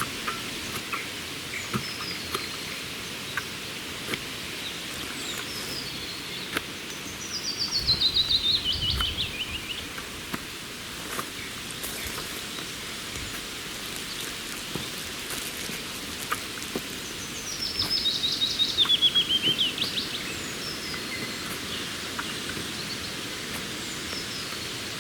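A songbird singing twice, about ten seconds apart. Each song is a quick series of notes falling in pitch, heard over a steady background hiss with scattered faint chirps and ticks.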